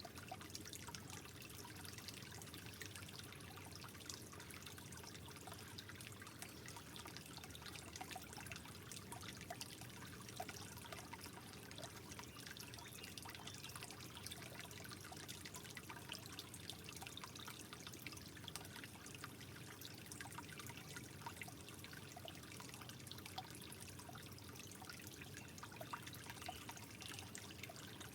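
Faint, steady trickling water with many small drips and splashes.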